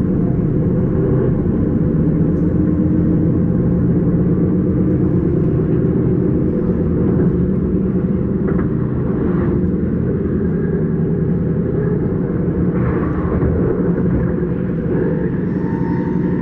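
S-Bahn electric train running at speed: a steady low rumble and hum of motors and wheels on the track, with a few faint higher tones in the last few seconds.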